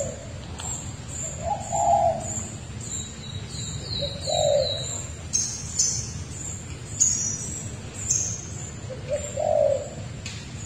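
Birds calling: a low cooing note three times, a few seconds apart, over high chirps and a quick run of high whistled notes about three seconds in.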